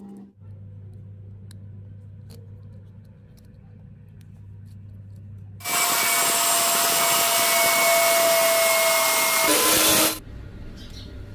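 An electric power tool switches on and runs loudly with a steady whine for about four and a half seconds, then stops suddenly. Before it, a low steady hum.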